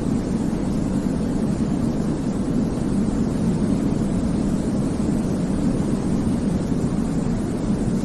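Steady, deep baby-sleep white noise: an even, low-pitched hiss that does not change.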